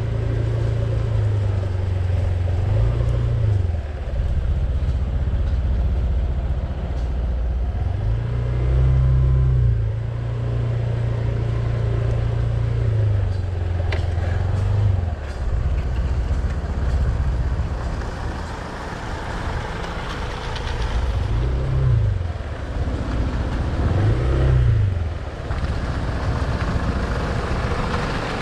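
A vehicle engine running steadily under way, its pitch rising and falling a few times as it speeds up and eases off.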